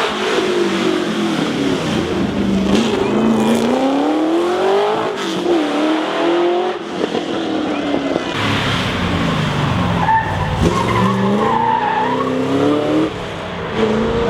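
Sports car engines accelerating hard, the engine note climbing and then dropping back again and again as the cars shift up through the gears, with more than one engine heard at once in the second half.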